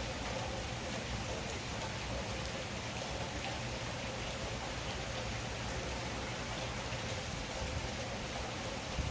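Heavy rain falling steadily, a continuous hiss with small drop ticks.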